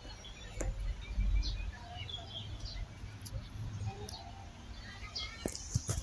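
Small birds chirping in short, scattered calls over a low rumble, with a few sharp clicks near the end.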